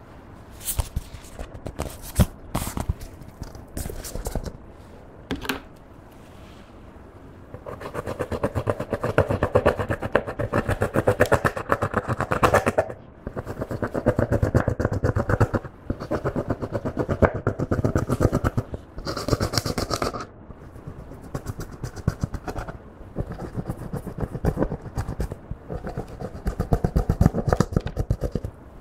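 Clear slime worked by hand with makeup mixed in. A few sharp, separate clicks and scrapes come first, then a long, dense run of quick wet clicks and pops from the slime being squished and folded, broken by short pauses.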